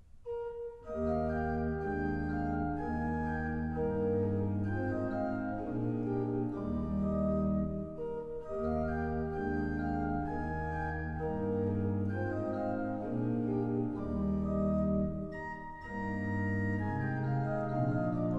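Church pipe organ playing a piece in full sustained chords over a moving bass line, starting about a second in.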